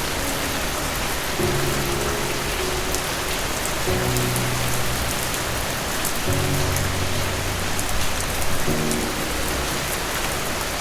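Steady heavy rain falling, with soft low music notes under it, a new chord coming in about every two and a half seconds.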